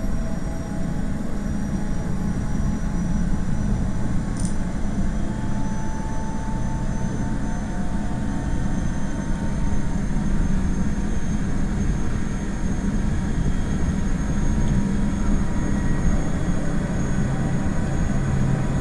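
NS ICMm electric multiple unit running under way, heard on board: a steady low rolling rumble with thin motor whines, one of them slowly rising in pitch as the train gathers speed. A brief sharp tick about four seconds in.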